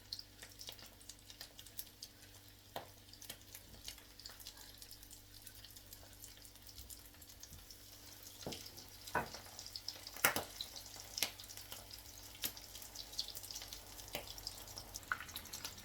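Breaded chicken croquettes frying in hot oil: a steady sizzle with scattered crackles, and a few louder pops around the middle.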